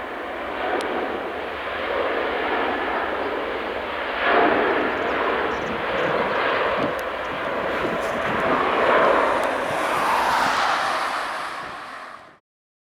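Jet airliner engines, a loud rushing noise that swells and eases with a high whine building near the end, then cuts off suddenly.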